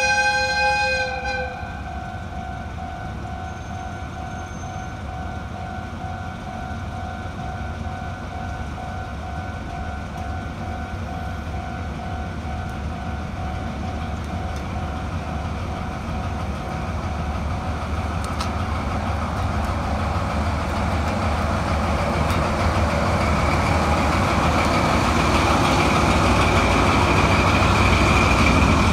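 A diesel locomotive hauling unpowered new Meitetsu 2230-series railcars approaches at low speed. It gives a short horn blast at the start. The engine and the rolling cars then grow steadily louder, with a high wheel squeal in the last several seconds.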